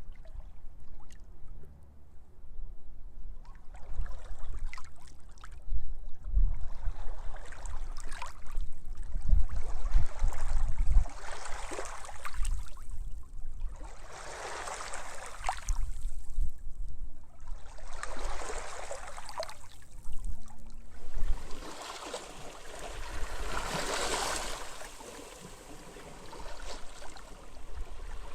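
Small sea waves washing onto a beach, each one swelling and fading over a couple of seconds, one after another every few seconds. Underneath is a low rumble of wind buffeting the microphone.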